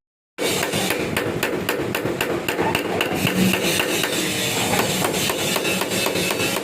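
Hammer blows struck rapidly and evenly, about four to five a second, starting after a short gap. The work is on a table fan shaft and its 6202 bearing.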